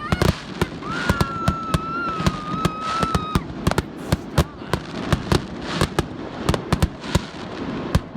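Fireworks going off: a rapid, irregular string of sharp bangs and crackles, with a steady high whistle running for about two seconds, starting about a second in.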